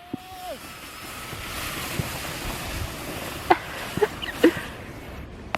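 A plastic container lid used as a sled sliding down an icy, snow-crusted slope: a scraping hiss that builds after about a second and fades toward the end, with a short whoop at the very start and a few brief sharp sounds near the end.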